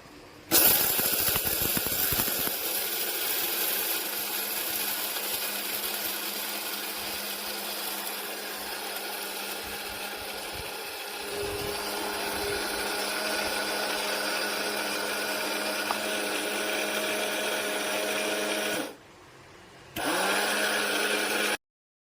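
BioloMix 300W electric coffee grinder's motor running at speed with a steady hum. It starts abruptly, runs for about eighteen seconds and stops, then runs again for under two seconds before cutting off.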